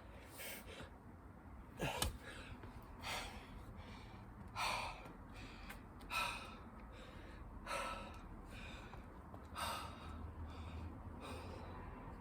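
A person breathing hard from exertion during a burpee and chin-up workout, with loud gasping breaths about every one and a half seconds. A single sharp knock about two seconds in.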